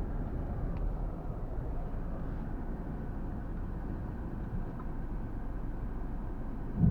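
Steady low road and engine rumble inside a moving vehicle's cab, with a short low thump near the end.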